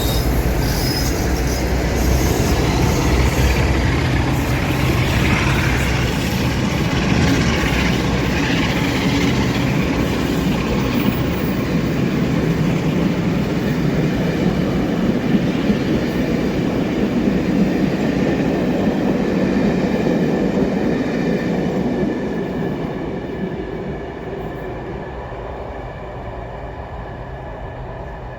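A train passing on the rails, with wheel and track rumble and some wheel squeal, fading away near the end.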